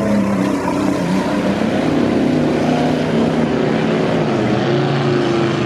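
Mud-bogging 4x4 truck's engine running hard at high revs, loud, its pitch wavering up and down.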